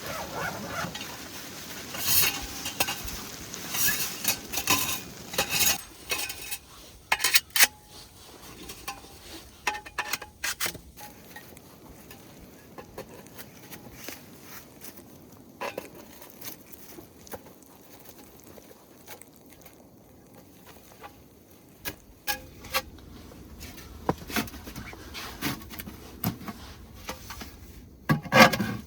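Cookware and utensils being handled: irregular clinks, knocks and scrapes, busiest in the first ten seconds, thinning out in the middle and picking up again near the end.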